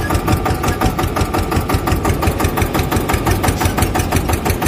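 Tractor engine chugging at a fast, even idle, about ten beats a second.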